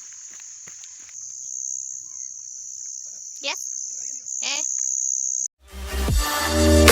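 Crickets trilling steadily at a high pitch, with two short falling calls in the middle. The sound cuts off suddenly, and electronic music begins near the end.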